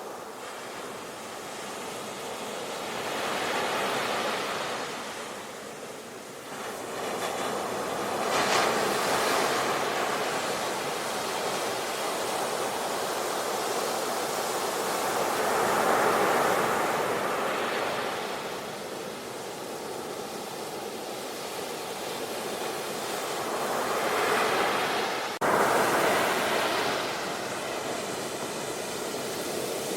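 Ocean surf breaking on a beach: a steady wash of waves that swells and falls in slow surges several seconds apart. There is an abrupt break with a momentary drop about 25 seconds in.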